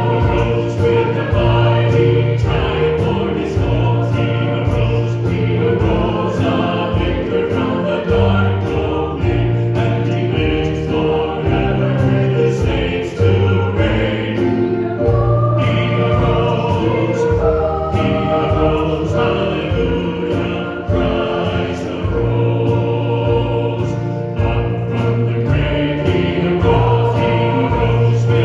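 Congregation singing a hymn together with instrumental accompaniment and a steady beat.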